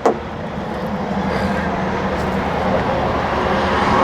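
A steady engine-like drone with a low hum, starting with a sharp click.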